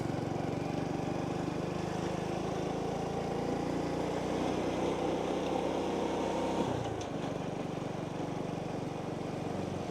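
Small motorbike engine running while riding, with a steady note that drops in pitch about seven seconds in. Road and air noise underneath.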